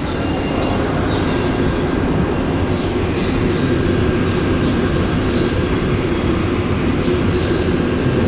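Taipei Metro C381 electric multiple unit moving off, heard from inside the car: a dense rumble that grows louder in the first second as it gets under way, with faint steady high tones.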